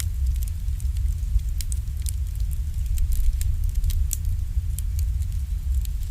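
Campfire crackling, with irregular sharp pops and snaps several times a second over a steady low rumble.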